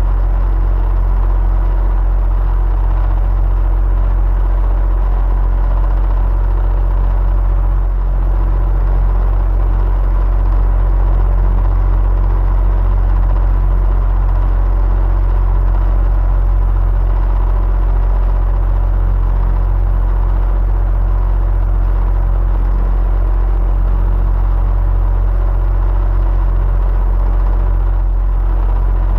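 Electric fan running steadily: an even, unbroken low rumble with a faint steady tone riding above it.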